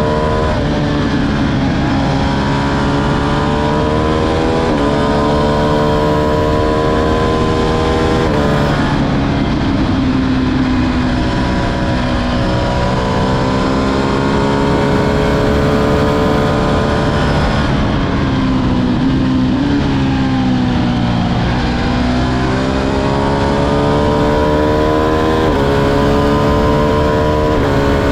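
Ducati Streetfighter V2's 955 cc Superquadro V-twin under hard acceleration, the revs climbing and dropping sharply at quick upshifts, with wind rush on the microphone. In the middle the revs fall away as the bike slows, then build again through more upshifts near the end.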